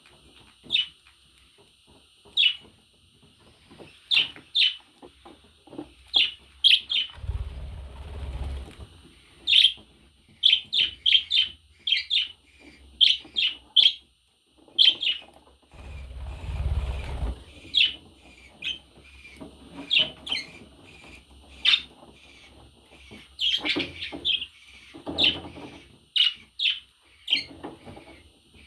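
Budgerigar giving many short, sharp chirps, singly and in quick runs of three or four. Twice a low rumble comes in under the chirps for about a second and a half.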